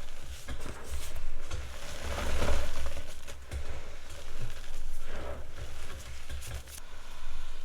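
Block of gym chalk being crushed and squeezed by hand, crumbling and crunching, with soft dull thumps every second or so.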